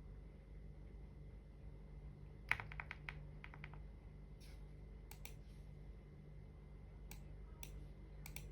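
Computer keyboard typing: a quick run of keystrokes about two and a half seconds in, then scattered single keystrokes.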